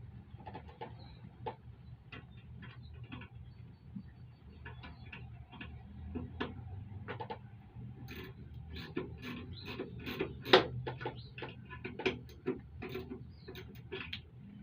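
Socket ratchet clicking in runs of sharp ticks as bolts are tightened, sparse at first and quicker and louder in the second half.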